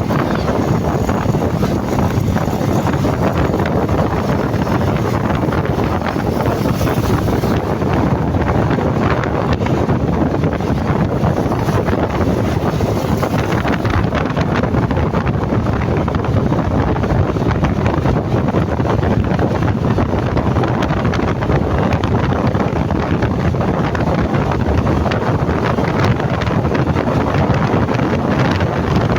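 Steady wind rushing over the microphone of a moving motorcycle, with road and engine noise blended underneath.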